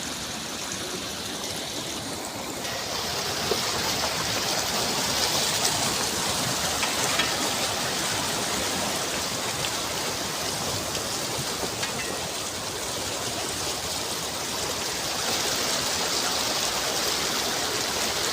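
Water flowing steadily along an irrigation channel, a continuous splashing rush that gets a little louder and brighter about three seconds in.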